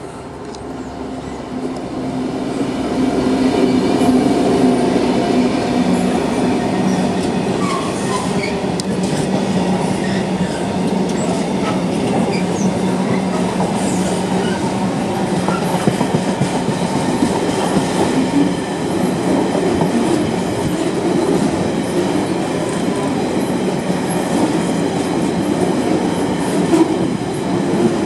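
British Rail Class 66 diesel locomotive passing with its EMD two-stroke V12 running, the steady engine hum growing louder over the first few seconds, then a long rake of container wagons rolling by, their wheels clicking over the rail joints.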